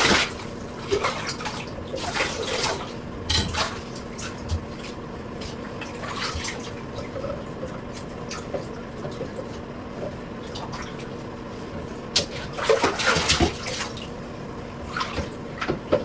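Water splashing in a bathtub while a cat is washed. There is a steady background of water with irregular splashes, heaviest in a cluster near the end.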